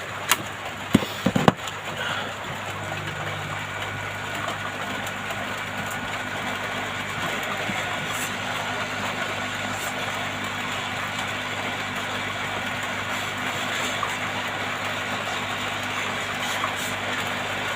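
Hot air rework station blowing steadily with a low motor hum, heating the phone's screen to loosen it. A few sharp clicks in the first second and a half.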